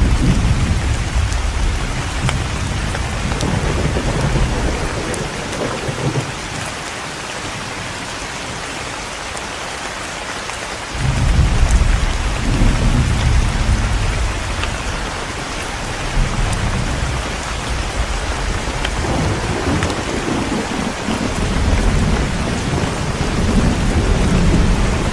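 Heavy rain falling steadily, with thunder rolling in low, long rumbles that fade in and out. There is a lull in the thunder about a third of the way through, then a fresh rumble breaks in suddenly.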